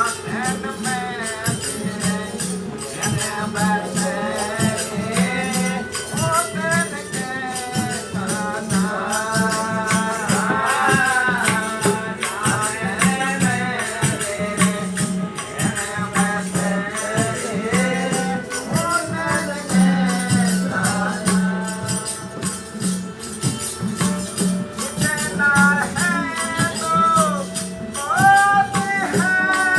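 Devotional satsang bhajan: a single voice singing a wavering melody over a steady low drone, with jingling hand percussion like a tambourine or rattle keeping a busy, even beat.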